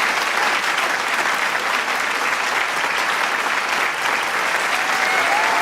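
Large crowd applauding and cheering: dense, steady clapping, with a few voices whooping through it near the end.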